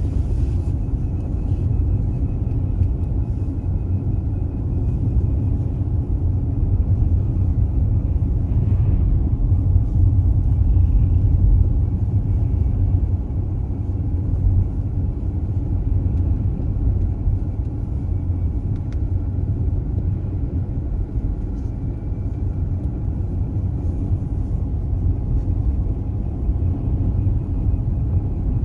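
Steady low road and tyre rumble of an all-electric Tesla Model S driving on snowy roads, heard from inside the cabin, with no engine note and a faint thin whine above it.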